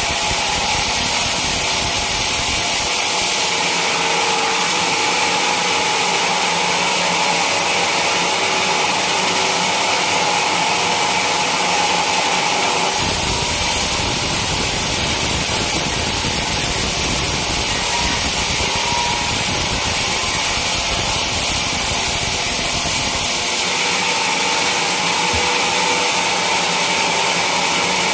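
Sawmill saw cutting through a teak log, giving a steady, loud, hissing machine noise. A deeper rumble comes in for about ten seconds in the middle.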